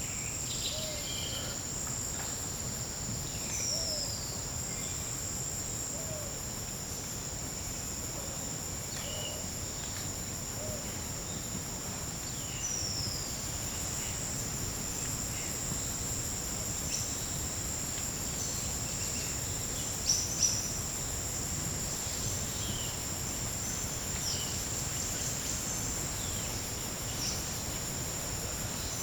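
Steady, high-pitched chorus of forest insects, with scattered short descending chirps and a few low short calls over it. Two sharp clicks about twenty seconds in stand out above the drone.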